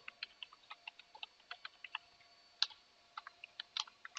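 Computer keyboard typing: quick, irregular keystrokes, several a second.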